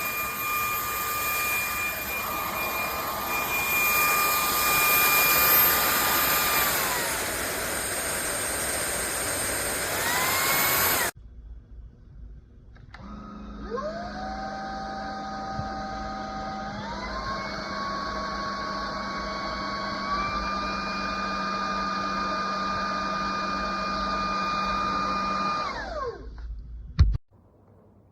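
VBUOO cordless stick vacuum's motor running with a high whine that dips and rises again, then switches off. It starts up again, climbs in pitch in two steps as it is cycled up through its power levels, then winds down, followed by a single click.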